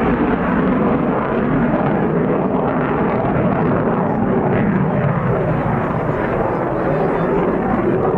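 Aircraft engine noise: a loud, steady roar that holds at an even level throughout.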